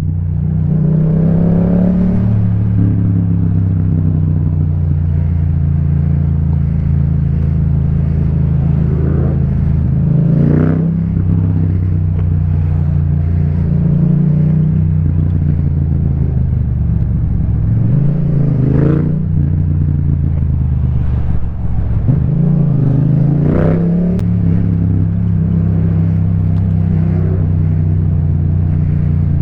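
Yamaha MT-07's 689 cc parallel-twin engine with an Akrapovic titanium exhaust, running under way in city traffic. The revs rise briefly several times as it pulls away and accelerates.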